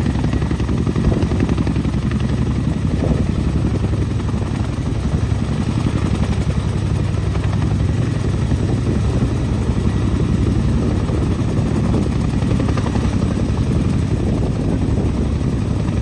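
Boeing CH-47 Chinook tandem-rotor helicopter running close by, its rotors giving a steady, rapid beat.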